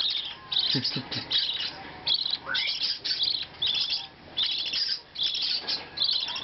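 Baby budgerigar chicks' food-begging calls during hand-feeding: short bursts of rapid high chirping, about two bursts a second.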